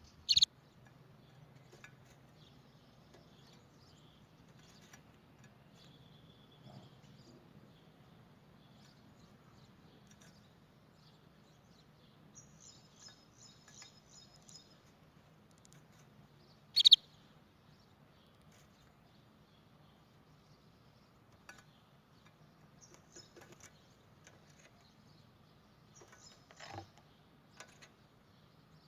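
Canary giving sparse short chirps, two of them loud (one near the start, one a little past halfway), with faint quick trills and calls in between over a steady low hum.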